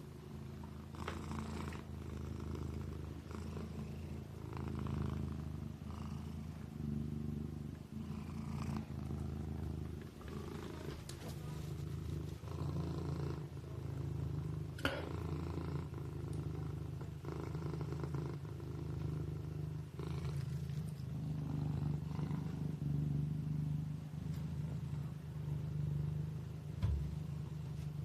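Kitten purring steadily in slow, even cycles. There is a single sharp click about halfway through and a brief low thump near the end.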